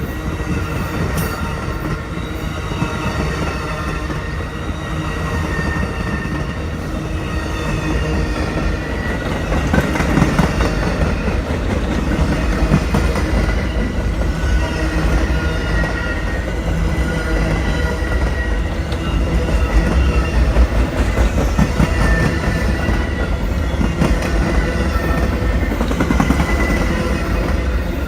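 Train running past on the rails: a steady rumble of wheels on track that grows louder about ten seconds in, with thin, high wheel squeal over it.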